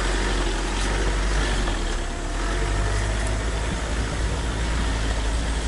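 Steady engine drone and rushing road and wind noise inside a 4x4's cabin while driving, a rush that a passenger puts down to wind leaking in.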